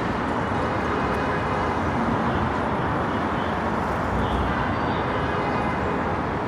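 Steady city street noise with road traffic going by.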